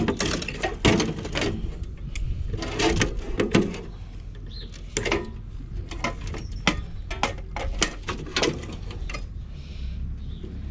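Irregular knocks, clicks and clanks of metal scrap parts being handled and moved while an appliance is stripped.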